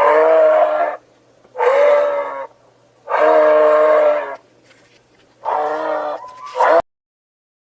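An animal calling four times, each call a drawn-out, steady-pitched cry about a second long; the last one breaks higher and cuts off suddenly.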